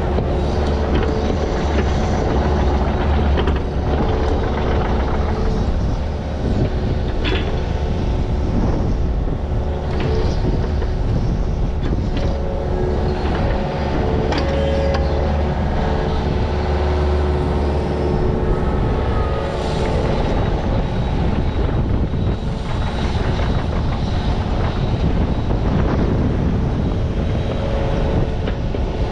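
Digging machine's engine running steadily under load, with scattered knocks and scrapes. Its deep low hum eases off about two-thirds of the way through.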